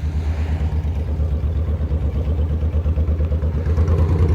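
Motorcycle engine running at low revs near idle, a steady low pulsing that picks up slightly near the end.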